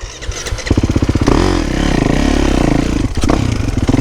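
450cc four-stroke motocross bike engine firing up about a second in after a stall, then running and being revved up and down through the throttle.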